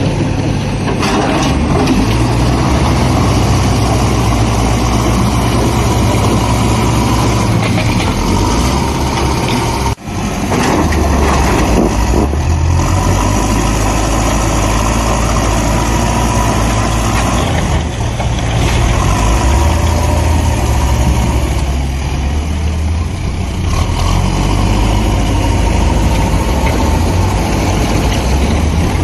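Heavy vehicle engines running and idling with a steady low rumble, with a brief break about ten seconds in.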